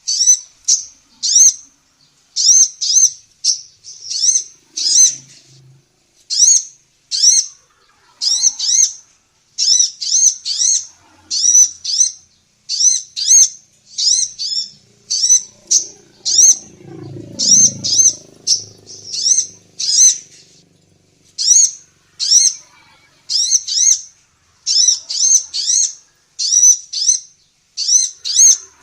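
Female sunbird (the 'kolibri ninja' of Indonesian songbird keeping) calling in quick, very high chirps, in clusters of two to four, almost without pause. A faint low rumble runs under the calls about halfway through.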